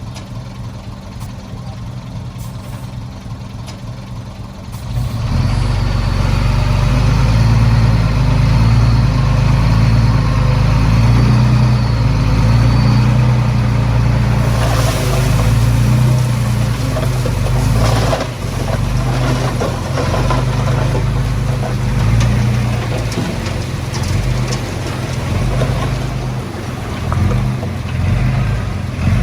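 Heavy diesel engine of earth-moving machinery idling, then running much louder under load from about five seconds in. There are a couple of brief rushing noises about halfway through.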